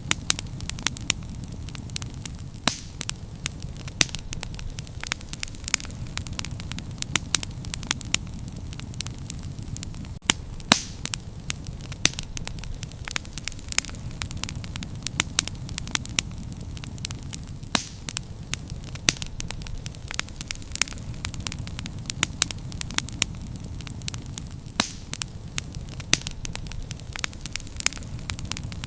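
Bonfire of burning firewood crackling, with irregular sharp pops and snaps, a few a second and some much louder, over a steady low rumble.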